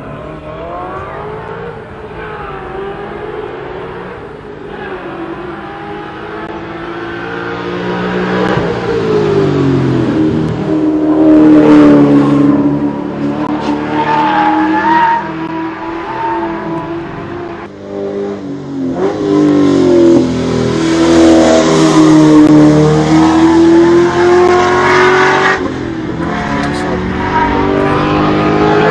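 VT Holden Commodore engine revving hard under full throttle, its pitch climbing and then dropping back again and again as it changes gear and brakes for corners. It gets louder as the car nears the camera.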